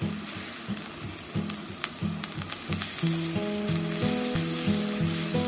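Scrambled egg, cheese and garlic sizzling in a hot pan as a metal spoon stirs it, with a few faint scrapes. Background music with a steady beat plays over it, a melody joining about three seconds in.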